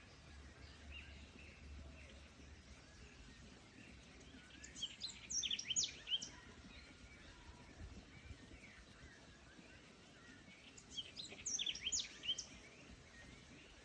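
A songbird singing two quick phrases of rapid, high, falling notes, about five seconds in and again near the end, over fainter scattered bird chirps and a steady background hiss.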